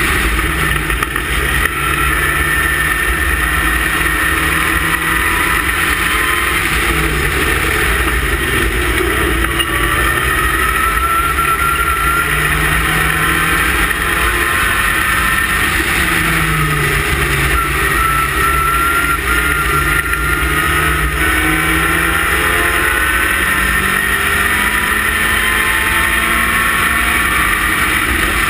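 Westfield race car engine running hard at racing speed, its pitch rising through the gears and dropping back on the lift-offs several times.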